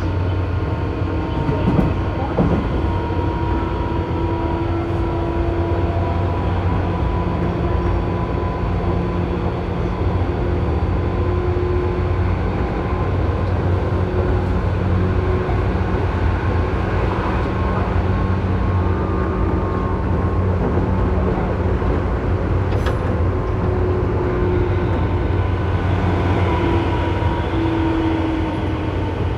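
Tobu 9000-series electric train running, heard from inside the car above its armature chopper: steady motor and rail noise with a thin chopper whine that wavers slightly in pitch. This is the car's abnormal chopper noise.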